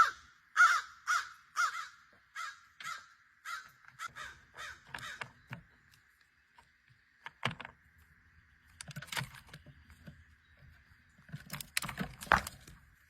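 Crows cawing: about a dozen caws in a steady series over the first five seconds, growing fainter. After a pause come a few sharp knocks and clicks, the loudest cluster near the end.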